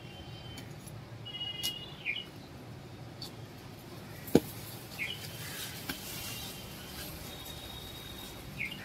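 Birds chirping in short calls, with a brief held whistle near the start, over a low steady outdoor hum. One sharp knock about four seconds in is the loudest sound.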